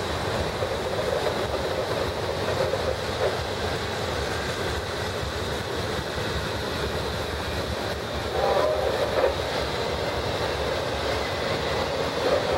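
Cars of a CSX freight train rolling past: a steady rumble and clatter of steel wheels on the rails, a little louder about eight and a half seconds in and again near the end.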